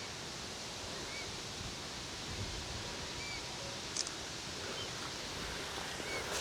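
Steady outdoor background hiss with a few faint, short bird chirps scattered through it, and one brief sharp click about four seconds in.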